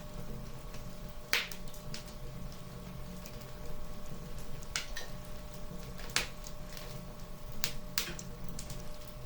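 Wood fire crackling in a fireplace: sharp, irregular pops and snaps every second or two, the loudest a little over a second in and around six and eight seconds in, over a steady low rumble.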